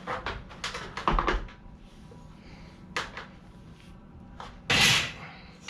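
Knocks, clunks and clatter of a heavy electric blower motor being lifted and moved up onto metal wire shelving, with a louder scraping rustle near the end.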